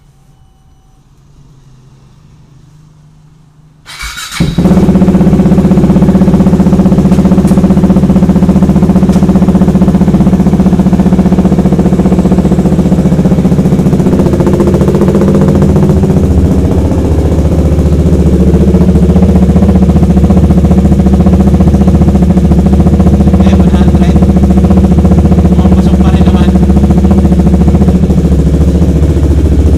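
KTM Duke 390's single-cylinder engine, fitted with a straight-pipe custom exhaust with no baffle, starts about four seconds in and then runs steadily and very loud.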